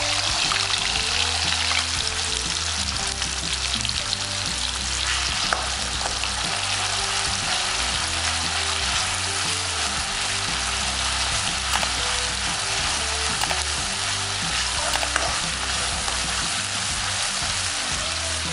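Wet ground onion-coconut masala paste sizzling in hot oil in a kadhai, a steady frying hiss, while a metal spoon stirs it with occasional scrapes against the pan. This is the masala being fried in the tempering oil (cumin, mustard seeds, curry leaves) until the oil separates.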